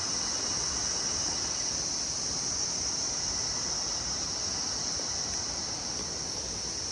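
Steady, high-pitched insect chorus ringing without a break, over a steady rushing hiss.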